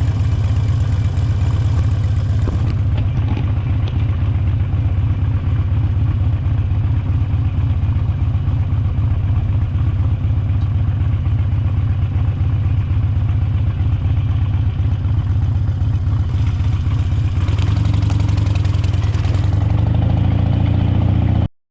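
Motorcycle engine running steadily while riding, a heavy low drone that swells a little near the end and then cuts off abruptly.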